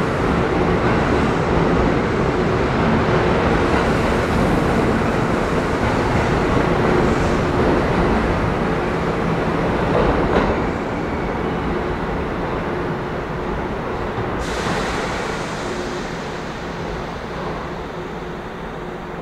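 Kintetsu electric train running by, steady motor tones over wheel and rail noise. It stays loud for about the first ten seconds, then fades steadily as it moves away.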